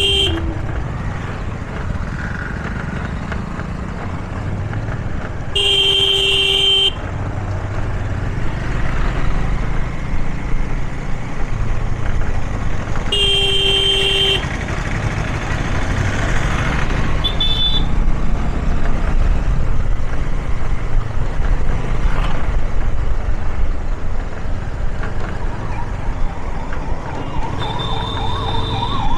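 Traffic heard from a moving motorbike: a steady engine and road rumble, with vehicle horns honking, two long blasts about 6 and 13 seconds in and shorter toots. A warbling siren comes in near the end.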